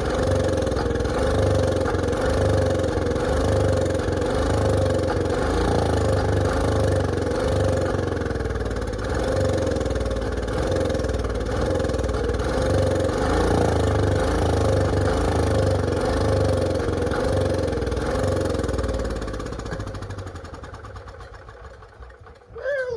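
Honda EM3000 portable generator's engine running after decades in storage, its pitch wavering a little, then winding down and stopping about twenty seconds in. A brief high-pitched chirp follows near the end.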